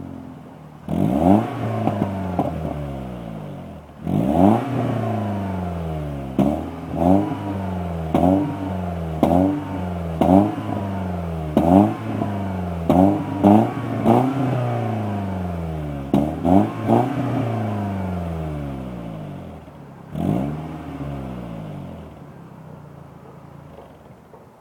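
BMW E36 316i Compact's four-cylinder engine, warm after a drive, breathing through a Bastuck aftermarket exhaust with front silencer. It is revved in a dozen or so short, sharp blips, about one a second through the middle stretch, and the revs sink back toward idle after each. It settles and fades near the end.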